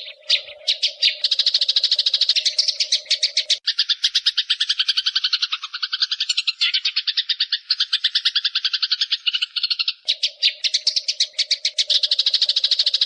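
Eurasian tree sparrows chattering in a fast, harsh run of notes, about ten a second, as in a squabble between rival birds. A faint steady hum runs underneath at the start and again after about ten seconds.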